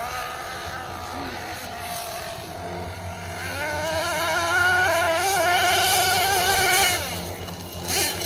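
Small nitro engine of a Team Associated MGT 8.0 RC monster truck running at high revs, growing louder about three and a half seconds in with its pitch wavering as the throttle works, then falling off a second before the end.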